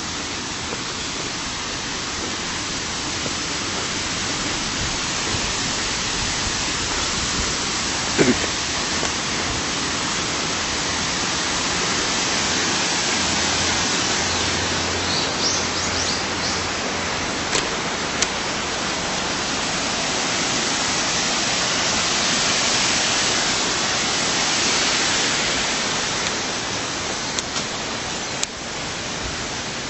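Water cascading steadily, a loud, even rush. A brief knock comes about eight seconds in.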